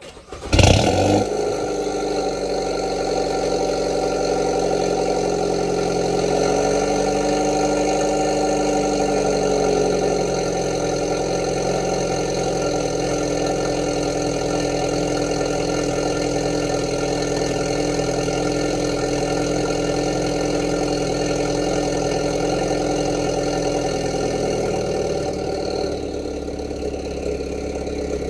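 Hyundai Veloster N's turbocharged 2.0-litre four-cylinder with a catless downpipe cold-starting: a brief crank and a loud flare right at the start, then a steady fast idle. The idle steps down a little about ten seconds in and settles lower again near the end as the engine warms.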